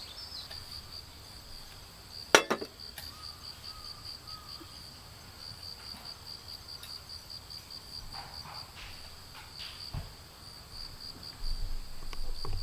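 Insects chirping in a steady high, pulsing trill of about five pulses a second, with a single sharp knock about two seconds in and low rumbling near the end.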